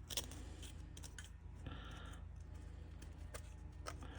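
Scattered light clicks and taps from the opened, rusty fuel-tank sending unit being handled, with a short scraping rustle a little before the middle, over a low steady hum.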